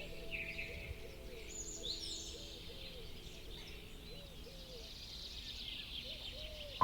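Several birds singing: quick high chirps and trills over a low, soft call repeated about once a second.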